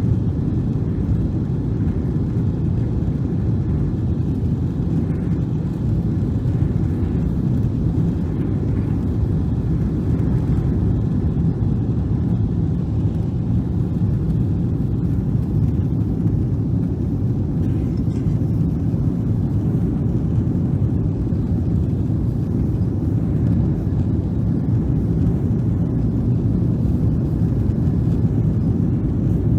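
Boeing 777-300 airliner noise: a steady, even low rumble of engines and airflow with no change in level.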